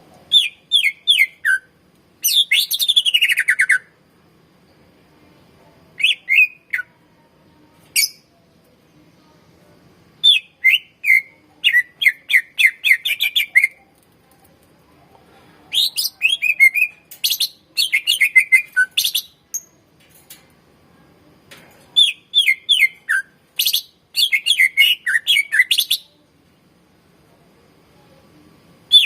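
Cucak ijo (green leafbird) singing loud, rapid phrases of sharp whistled notes, many of them falling in pitch. The song comes in about seven bouts of one to four seconds, with short pauses between them.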